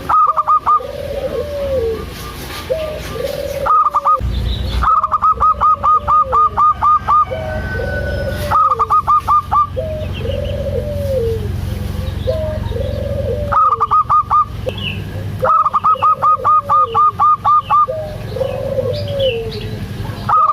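Zebra dove (perkutut) cooing: short arched coos repeat about once a second, with several loud bursts of quick, evenly repeated higher notes, each lasting a second or two.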